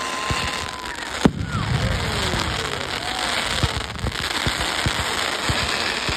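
Fireworks going off: a held whistle ends in one sharp bang about a second in, followed by falling whistles and many scattered crackling pops.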